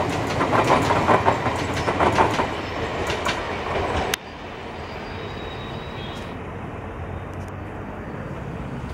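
Passenger train coaches passing, their wheels clattering in a quick, even rhythm over the rail joints. About four seconds in the sound drops abruptly to a quieter, steady rumble as the last coaches run away down the line.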